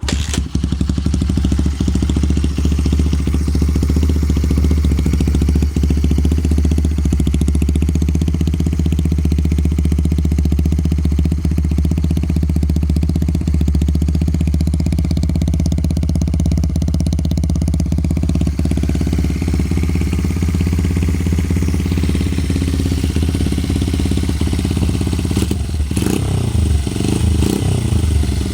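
Honda Ape 100's air-cooled single-cylinder four-stroke engine through a Yoshimura titanium Cyclone muffler, starting up abruptly and then idling steadily with a deep exhaust note. Near the end the pitch rises and falls a few times with light throttle blips.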